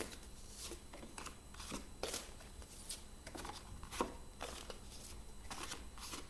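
Stiff paper flashcards being flipped over one after another, each a short crisp rustle or flick, about two a second.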